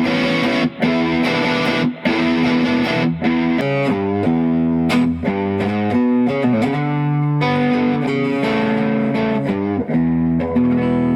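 Epiphone Les Paul Ultra electric guitar played through an amp: chords struck in a rhythm, a short run of single notes in the middle, then held, ringing chords.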